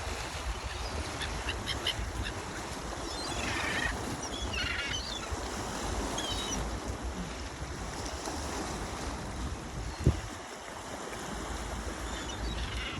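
Seagulls giving short calls several times over the steady low rumble of a boat at sea, with one sharp knock about ten seconds in.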